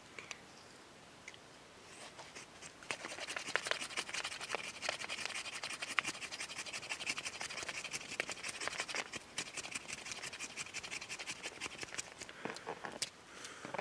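Small knife shaving and scraping wood in quick, repeated scratchy strokes, starting about two and a half seconds in. There is a brief pause near the end.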